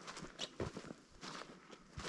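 Hiker's footsteps on a forest trail: a walking rhythm of short scuffing steps, about two a second.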